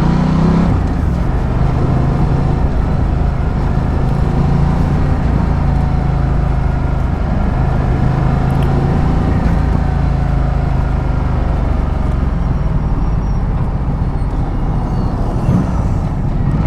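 Ducati Multistrada 1200's V-twin engine pulling up through the revs in the first second, then running steadily at road speed, with heavy wind rumble on the rider's microphone.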